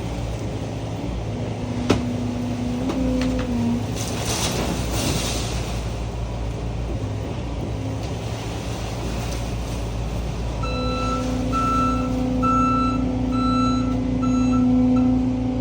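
John Deere skid steer's diesel engine running steadily, with a whine rising under load and a sharp click about two seconds in. From about ten and a half seconds in, its backup alarm beeps a little more than once a second as the machine reverses.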